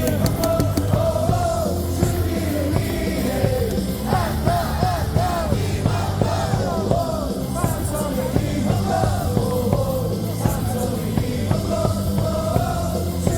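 Baseball cheering section singing and shouting a team cheer song along with loud amplified music that has a steady beat.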